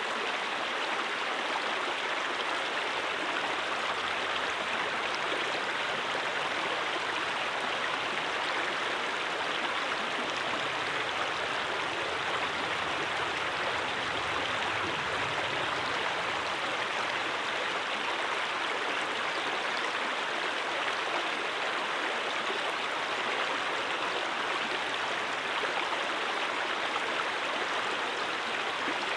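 A stream flowing steadily over rocks, a continuous even rush of water.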